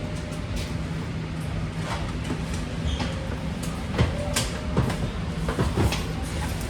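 BART train running on the rails, heard from inside the car: a steady low rumble with a few short knocks and brief squeaks as it approaches the station.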